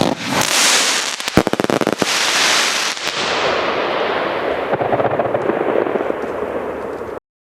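Salon Roger Skull Thunder 900 nitrate firecracker mat going off: a fast barrage of bangs so close together that they blur into a continuous crackling rattle. The sound cuts off suddenly near the end.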